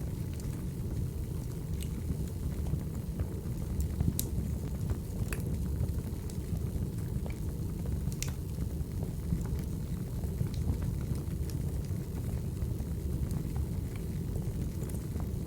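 Recorded wood fire burning: a steady low rumble with sparse sharp crackles and pops, the clearest about four and eight seconds in.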